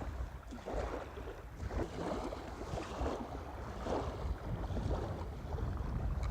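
Strong wind buffeting the microphone with a steady low rumble, and small waves lapping in irregular surges about once a second.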